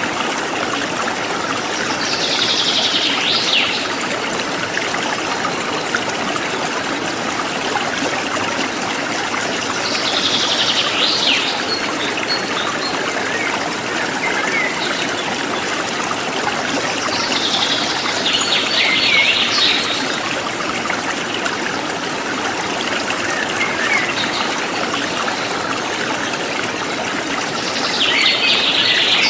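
A forest stream flowing steadily. A bird's short, high song phrase comes four times, about every eight seconds.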